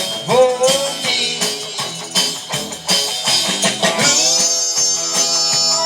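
Live band music: guitar playing bent notes over a steady drum beat.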